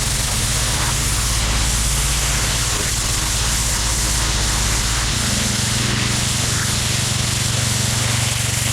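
Gas-engine pressure washer running under load while its high-pressure water jet sprays with a loud, steady hiss. The engine's low hum shifts in pitch about five seconds in.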